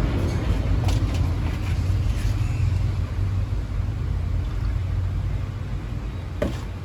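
Low engine rumble of a passing motor vehicle that slowly fades away, with a couple of light clicks, one about a second in and one near the end.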